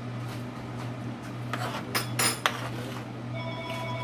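A utensil stirring and clinking against a pan of sauce, with a few sharp, ringing clinks about two seconds in, over a steady low hum. A steady tone of several pitches starts near the end.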